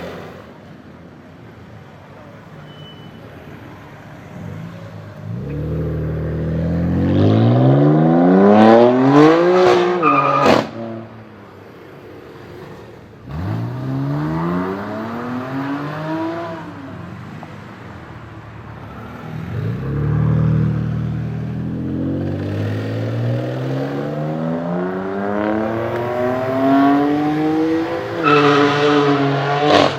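BMW M4 F82's twin-turbo straight-six through a Fi valved exhaust, accelerating hard several times: the engine note rises steeply and cuts off sharply about ten seconds in, rises again briefly, then climbs in a long run near the end.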